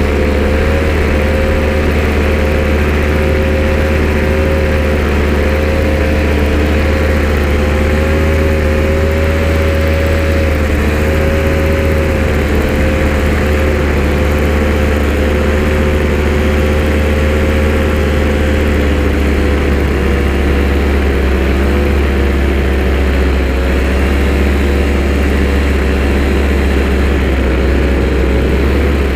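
A motor-vehicle engine running loudly and steadily, its pitch drifting slightly up and down with small changes in engine speed.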